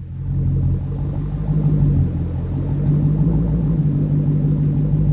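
Supercharged 6.2-litre Hemi V8 of a 2016 Dodge Challenger SRT Hellcat running steadily at low revs through its stock exhaust, the pitch holding even with no revving.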